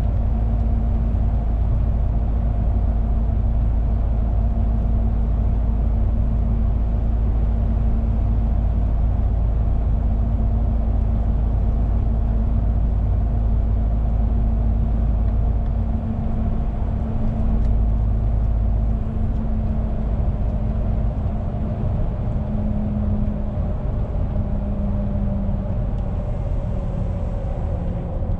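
Truck's diesel engine and road noise heard from inside the cab while driving, a steady drone. The deep rumble drops off about sixteen seconds in, and the engine note shifts slightly near the end.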